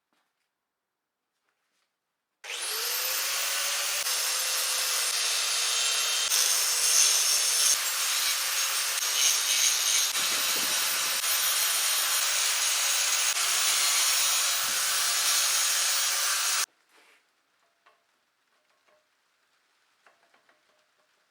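Power tool spinning up with a rising whine, then running steadily while cutting through the engine backplate to open a large hole for the new oil pickup. It stops abruptly about fourteen seconds later.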